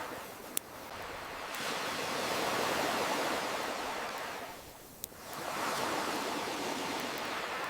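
Ocean waves washing ashore, swelling and falling back, with a lull just before the halfway mark. A crackling campfire gives two sharp pops, one near the start and one just past the middle.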